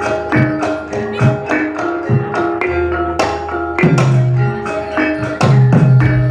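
Jathilan gamelan music: struck metallophones ring out a repeated melody over drum strokes, and a deep sustained low tone enters about four seconds in.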